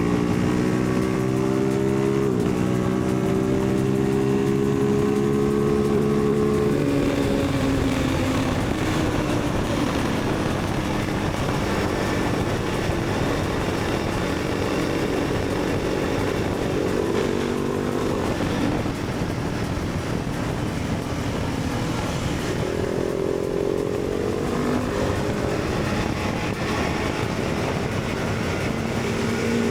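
Motorcycle engine under way, its note climbing and then dropping as it shifts gears, over steady wind and road noise.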